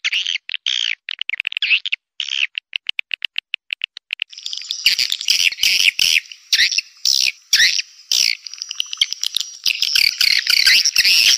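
Swiftlet calls from a swiftlet-house lure recording: rapid trains of high chirps that start and stop abruptly. About four seconds in, they turn into a denser, unbroken twittering mixed with sharp clicks.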